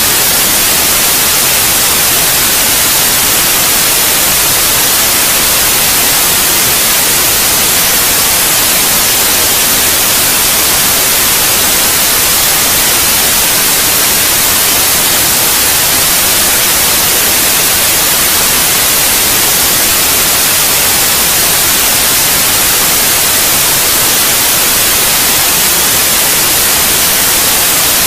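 Steady white noise: a loud, even hiss that is strongest in the high end and never changes. It is played as a sleep aid for babies.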